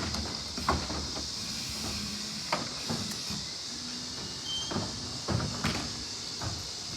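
Irregular knocks and clanks, about eight in seven seconds, from an Autocar ACX CNG McNeilus rear-loader garbage truck at work, over a steady high hiss and a low hum.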